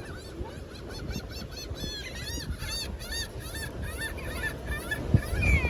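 Seagulls calling in a quick series of short, repeated squawks, over a low steady wash of surf and wind.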